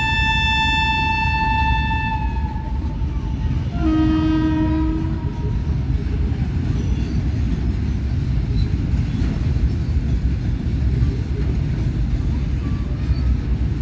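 Freight train's covered wagons rumbling steadily past on the rails. A train horn is held for the first two seconds or so, and a shorter, lower horn blast sounds about four seconds in.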